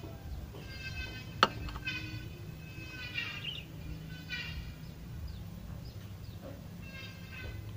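An animal's short pitched calls repeated about once a second, with one sharp click about a second and a half in.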